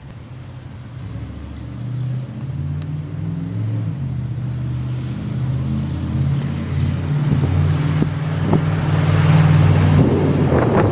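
Chevy 454 big-block V8 truck engine running and revving. Its exhaust note steps up and down in pitch and grows steadily louder, and a rushing noise builds near the end.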